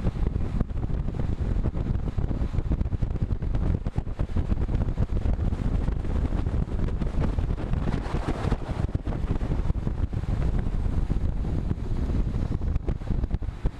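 Wind buffeting the microphone of a rider's camera on a moving road bike, a steady low rushing that flutters rapidly. A brief swell in the middle range comes about eight seconds in.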